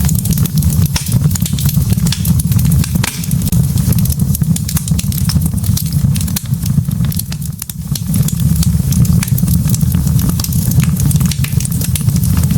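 Wood fire burning in a fireplace: burning logs crackling, with many sharp pops and snaps over a steady low rumble of the flames.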